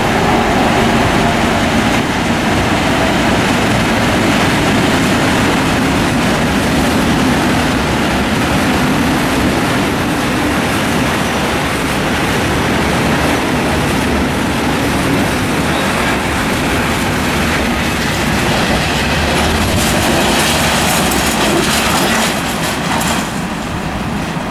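Freight train passing close by. The DB class 294 diesel locomotive's engine hums as it goes by in the first couple of seconds, then the wagons, tank wagons among them, roll past with a steady rumble and clatter of wheels on the rails. The clatter turns brighter and harsher about twenty seconds in.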